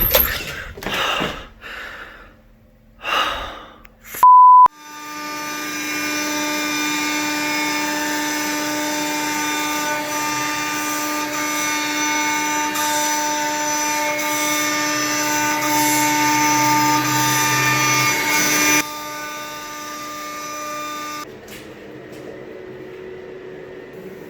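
CNC router spindle running at speed: a steady high whine with many overtones that starts just after a short beep about four seconds in. It drops in level near nineteen seconds and cuts off a couple of seconds later, leaving a quieter steady hum. A few short squeaks and knocks come before the beep.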